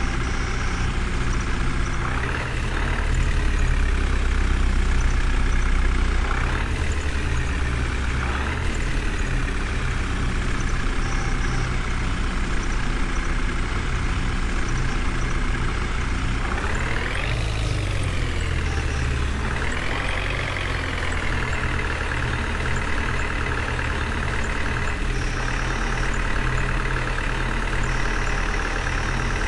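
A heavy engine running at idle and revving up and back down several times, with one longer rev about halfway through.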